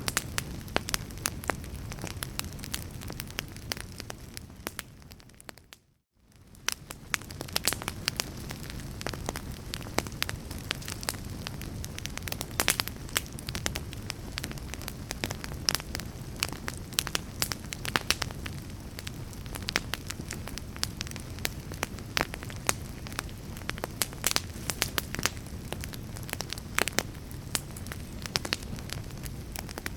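Wood fire crackling: a steady low rush of flames with frequent sharp pops and snaps. About six seconds in it fades out to near silence for a moment, then fades back in.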